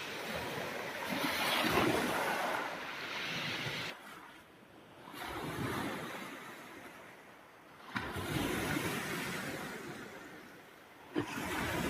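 Sea surf washing in with wind, a rushing noise that swells and falls back several times, dropping off abruptly about four seconds in.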